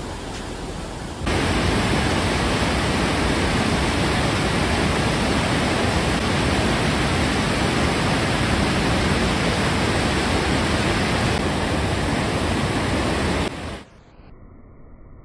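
Steady, loud roar of a large waterfall, an even rushing with no pitch. It jumps louder about a second in and cuts off suddenly near the end.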